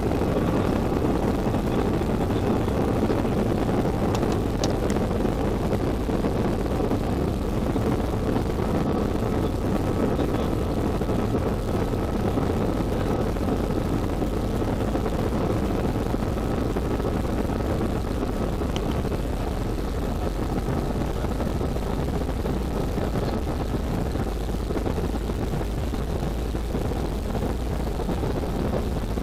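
Steady engine and airflow noise inside a jet airliner's passenger cabin in flight, with a faint high whine over it.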